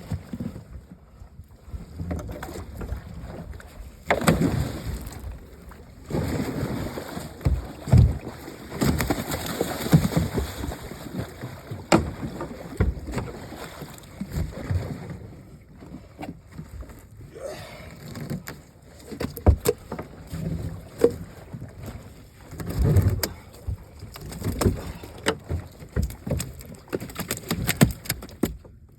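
Irregular thumps, knocks and splashing aboard a small fishing boat, with bursts of rustling, splashy noise between them, as gill nets and flopping fish are handled on board.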